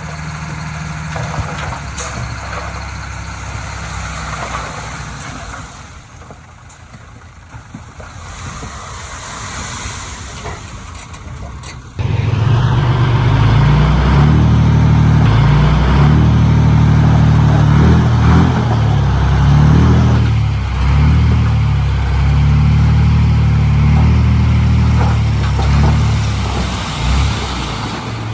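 Heavy diesel engines of earthmoving machinery running. About twelve seconds in, the sound jumps abruptly to a much louder, closer engine whose pitch rises and falls as it works under load, then it drops back near the end.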